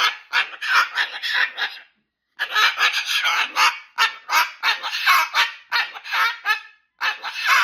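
Moluccan cockatoo calling loudly in rapid runs of short, harsh squawks, several a second, in three bursts with brief pauses after about two seconds and near the end.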